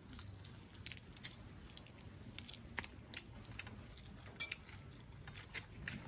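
Quiet eating sounds: chewing with scattered small crisp clicks and crunches, as fresh lettuce leaves and rice with stir-fried eel are eaten by hand.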